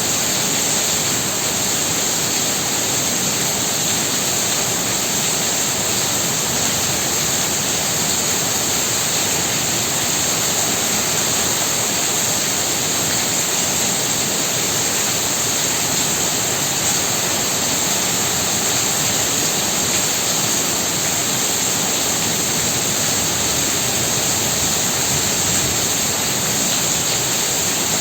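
Heavy rain pouring down, an even, unbroken hiss that holds steady throughout.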